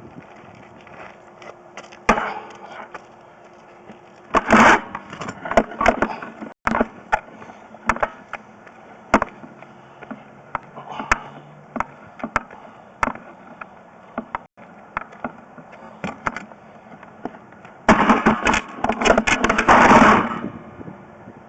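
Irregular clicks and knocks, with two longer bursts of scraping rattle, one about five seconds in and one near the end: a sewer inspection camera's push cable being fed and knocking as it moves through the pipe.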